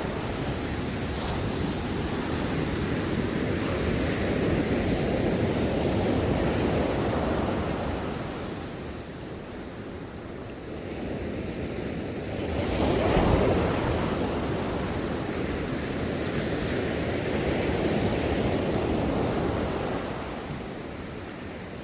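Ocean surf breaking on a shore, a continuous wash of noise that swells and ebbs with each set of waves. It dies down to a lull about a third of the way in, then builds to its loudest wave a little past halfway.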